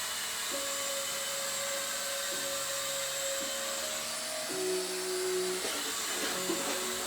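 Small electric rotor motors of a toy RC helicopter drone, whirring steadily at a high pitch.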